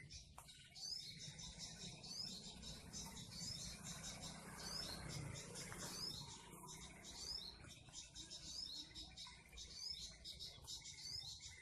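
Birds chirping rapidly over and over, high-pitched, over a faint low hum.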